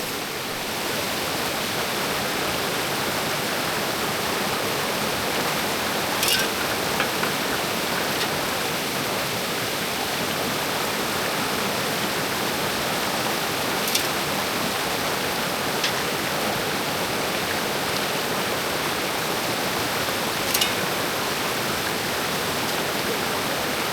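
Mountain creek water rushing steadily over rocks, with a few brief sharp ticks now and then.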